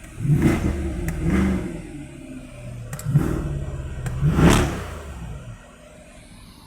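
Corvette Stingray's V8 engine revved in four short blips, each rising and falling in pitch, in two pairs a couple of seconds apart, then dropping back; the engine is said to be misfiring.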